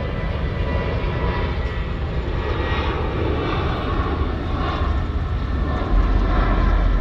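Steady rumble and roar of a moving passenger train, swelling a little near the end.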